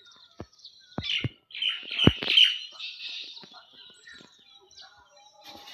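Several small birds chirping and twittering in a busy burst of chatter, loudest about two seconds in. A few sharp clicks or taps sound in the first two seconds.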